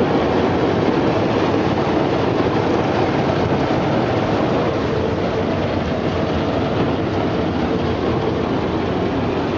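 Industrial brush-roller potato washing machine running: a steady, dense mechanical rattle and rumble.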